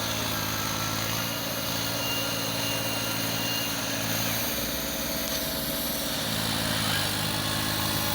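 Massey Ferguson 1035 tractor's three-cylinder diesel engine running steadily, its note shifting briefly about halfway through before settling back.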